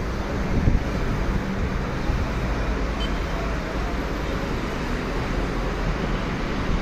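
Steady low rumbling background noise, with no distinct calls or knocks.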